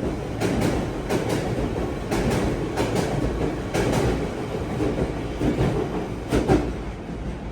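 Cabin noise of a London Underground 1992 Tube Stock train running on the Central Line: a steady rumble with irregular sharp clicks as the wheels pass over rail joints.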